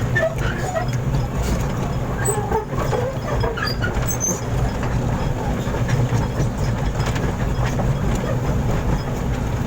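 Truck engine running steadily at a low drone, with a few faint short higher sounds in the first few seconds.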